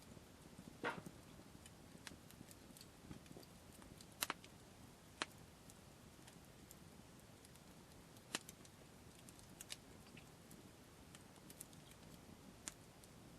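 Wood campfire crackling faintly, with scattered sharp pops at irregular intervals, the loudest about a second in and again around four, five and eight seconds in.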